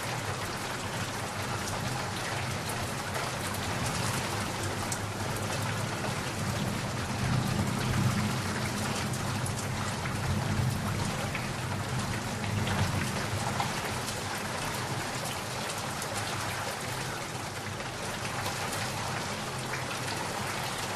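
Steady heavy rainfall pattering on surfaces, with a low rumble of distant thunder swelling and fading in the middle.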